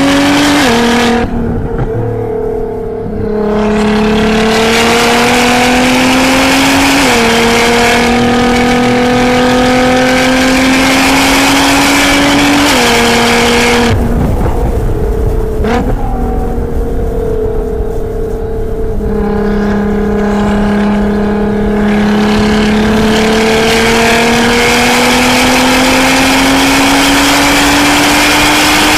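Nissan GT-R's twin-turbo V6, tuned to about 700 hp, heard from inside the cabin under full-throttle acceleration on track. Its note climbs steadily and drops back at each upshift. It eases off twice, briefly near the start and for a few seconds around the middle, where there is a sharp click, then pulls hard again to the end.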